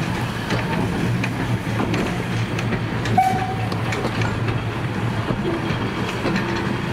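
Vintage passenger coaches of a steam-hauled train rolling past at low speed: a steady rumble with wheels clicking over the rail joints, and a brief squeak about three seconds in.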